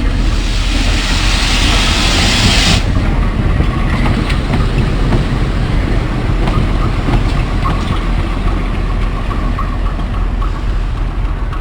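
Passenger train running on the rails: a steady rumble with scattered wheel clicks. A loud hiss covers the first three seconds or so and cuts off suddenly.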